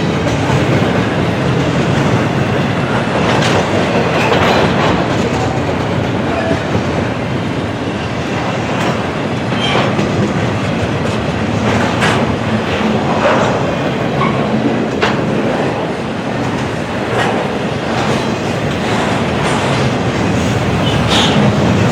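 Train cars rolling past on the rails: a steady rumble of wheels with irregular clacks and knocks throughout.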